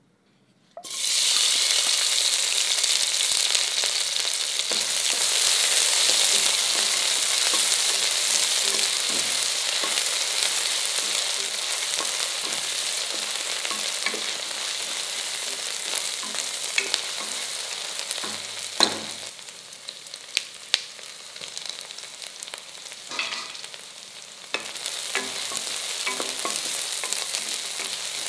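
Sliced shallots and green chillies dropped into hot sesame oil in a stainless steel pressure cooker: a loud sizzle starts suddenly about a second in, slowly fades, and swells again near the end. A spatula stirs and knocks against the pot a few times.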